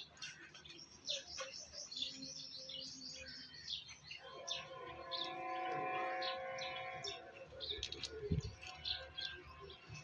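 Birds chirping in short, rapid high notes, with a steady held tone behind them for about three seconds from around four seconds in, and a dull thump near the end.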